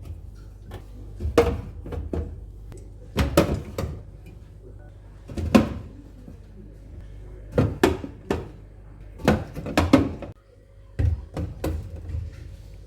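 A series of irregular knocks and thuds from household handling, doors and cupboards opening and closing and things being set down, over a low steady hum.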